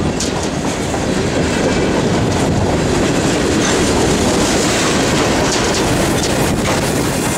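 Grain train's covered hopper cars rolling steadily past, with a loud continuous rumble and the clickety-clack of wheels over the rail joints.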